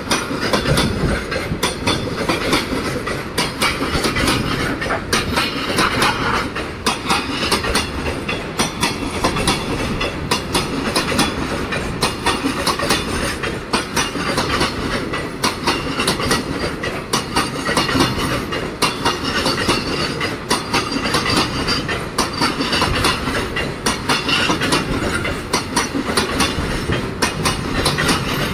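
Freight train of empty flat wagons running past, its wheels clattering over the rail joints in a steady, rapid clickety-clack with the rumble and rattle of the wagons.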